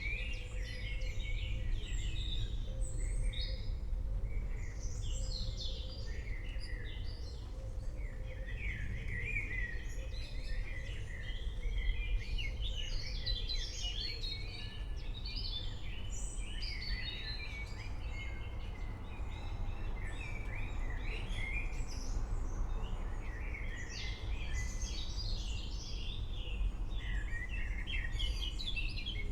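Many birds chirping and calling at once in a dense, continuous chorus, over a steady low rumble.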